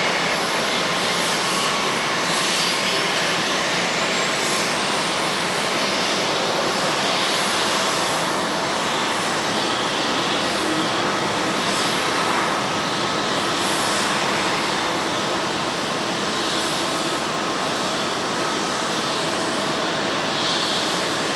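Lufthansa Boeing 747-8's four GEnx jet engines running, a steady roar of jet noise with no break or sudden change.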